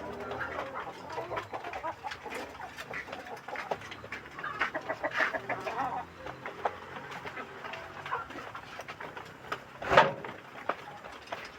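A flock of village chickens clucking and calling in short, scattered bursts, busiest around the middle, with one loud sharp sound near the end.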